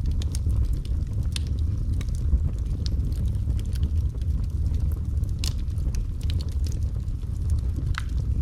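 Wood fire in a fireplace crackling: scattered sharp pops and snaps, a few louder ones, over a steady low rumble of the flames.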